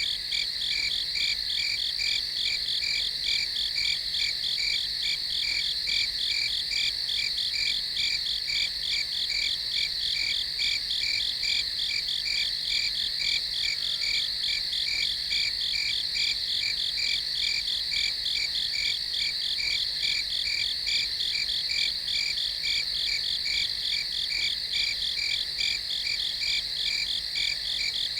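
Crickets chirping in a steady night chorus: a continuous high trill with rapid, evenly pulsed chirps over it.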